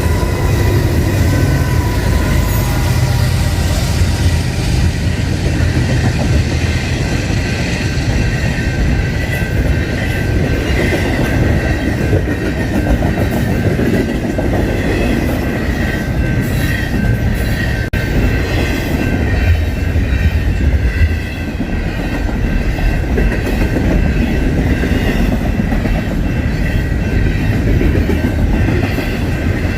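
BNSF double-stack intermodal freight train rolling past at speed, its wheels clicking over the rail joints over a heavy rumble, with a steady high wheel squeal.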